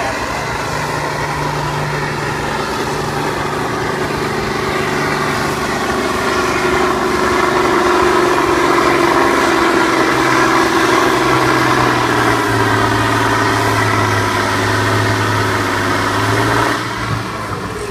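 International Harvester 5488 tractor's turbocharged six-cylinder diesel under full load pulling a tractor-pull sled. It gets louder and its pitch slowly falls as it lugs down under the growing weight, then eases off suddenly near the end.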